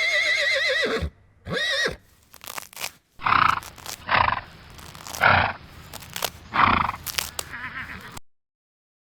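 Horse whinnying: a loud call with a quavering pitch that falls away at the end, then a second shorter whinny. After that come four short, harsh, noisy calls about a second apart, mixed with sharp knocks.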